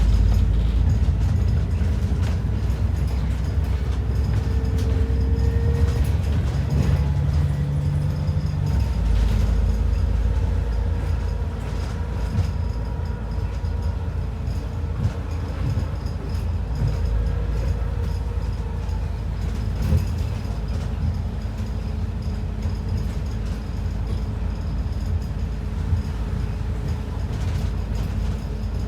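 ADL Enviro 400 double-decker bus heard from inside the cabin while under way: a steady low engine and road rumble with body rattles and small clicks, and a brief whine rising over it about five seconds in. The rumble shifts in character about nine seconds in.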